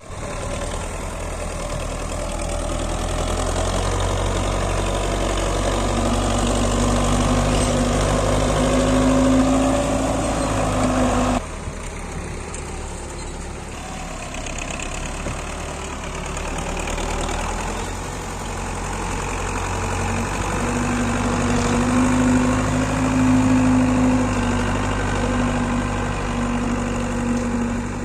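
Belarus 510 tractor's diesel engine running steadily, its level slowly swelling and easing, with an abrupt cut and drop in the sound about eleven seconds in.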